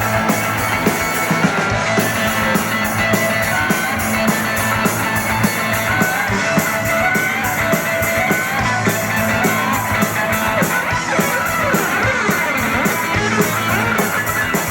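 Live band playing an instrumental break in an upbeat rock-and-roll song: guitar over a drum kit keeping a steady beat.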